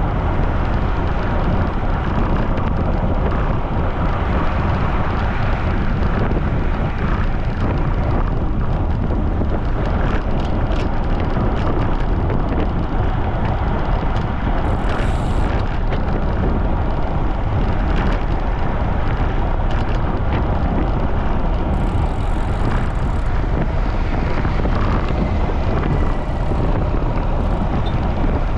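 Strong wind buffeting the microphone during a fast bicycle ride, a steady low rumble.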